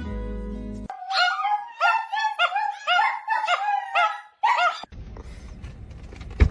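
A small dog yipping: a run of about eight short, high-pitched yelps, roughly two a second, starting about a second in and stopping just before five seconds. After that, a low, steady rumble.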